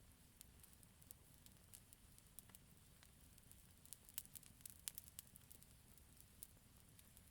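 Campfire crackling faintly: scattered sharp pops and snaps, thickest about four to five seconds in, over a low steady rumble.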